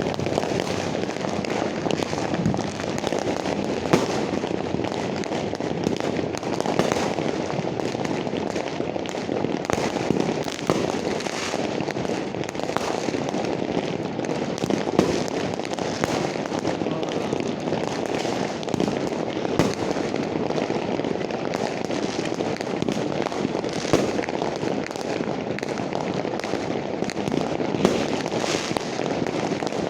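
Fireworks going off without a break: a dense crackling with a few louder single bangs scattered through it.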